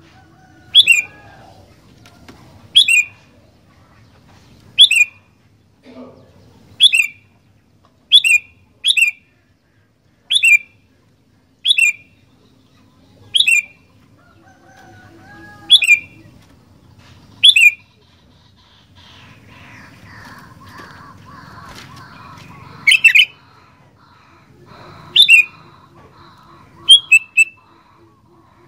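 Sooty-headed bulbul (kutilang) calling repeatedly: short, loud, sharply falling notes, one every second or two, about fifteen in all, with a pause of several seconds past the middle.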